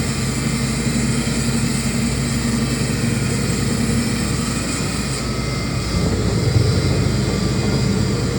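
CNC router running: a steady machine drone with a thin high whine over it. The high tones shift about five seconds in, and the low drone grows louder about a second later.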